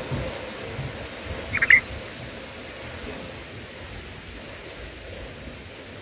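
A brief cluster of three or four quick bulbul chirps about one and a half seconds in, over a steady outdoor hiss with low rumbles in the first second.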